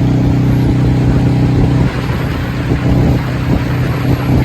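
Motorcycle engine running at a steady cruising speed, its pitch holding level, with wind rushing over the microphone.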